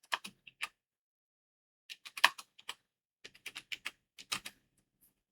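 Computer keyboard keys being typed in four short bursts of clicks, with brief pauses between them.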